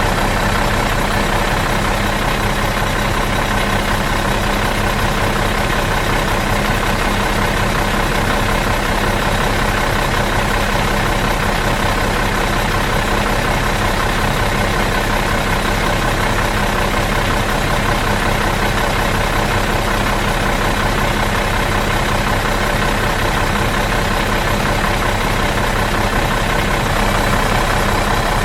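Bus diesel engine idling steadily out of gear, a low even drone with no change in speed.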